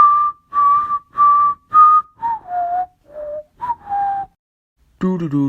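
A person whistling a short tune of about nine breathy notes: four level high notes, then a few lower ones.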